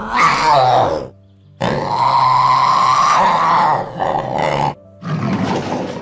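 A big cat roaring and growling in three loud calls: a short one, a long held one of about three seconds, and another starting near the end.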